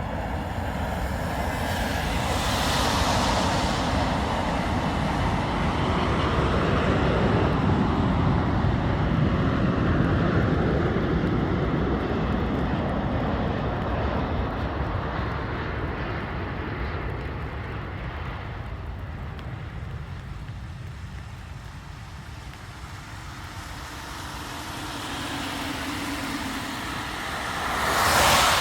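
Four-engined Airbus A380 jet passing on its landing approach: the engines' rushing noise builds to its loudest about eight to ten seconds in, then slowly fades away. A sudden loud rush of noise cuts in right at the end.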